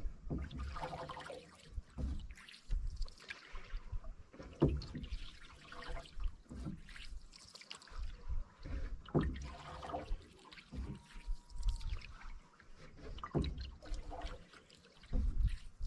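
Canoe paddle strokes in calm water, each one a splash and swirl followed by dripping, about every two seconds.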